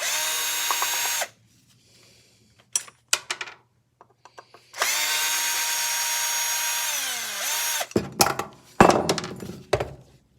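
Power drill running in two bursts: a short one of about a second, then a longer one of about three seconds whose pitch falls as the motor slows at release. Near the end come a few seconds of knocking and clattering as metal parts are handled.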